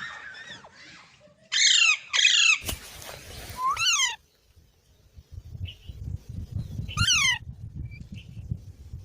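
Green parrot (rose-ringed parakeet) giving loud, harsh squawking calls: two in quick succession about a second and a half in, another near four seconds and one more near seven seconds. A low rumbling noise runs underneath in the second half.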